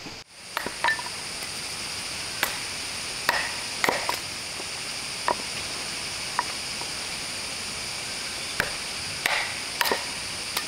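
Ice cubes dropped into a cup: about a dozen sharp, irregularly spaced clinks, some with a short ring.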